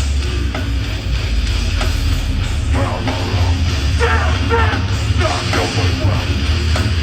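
Live hardcore punk band playing loud, heavy music with distorted electric guitars over a heavy bass.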